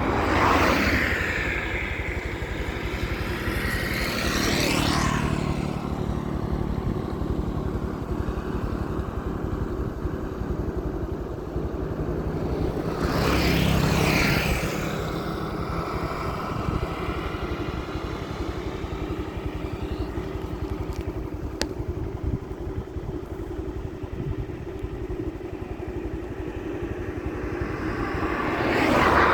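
Steady motor-vehicle engine and road noise, with other vehicles passing by at intervals, each rising and falling in pitch as it goes past.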